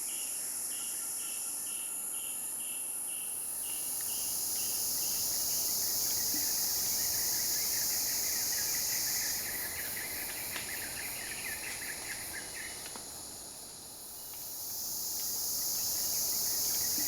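Rainforest insect chorus: a steady high-pitched buzzing. Over it, a regular pulsed call of about three beats a second runs for the first few seconds, then a fast chirping trill goes on through the middle.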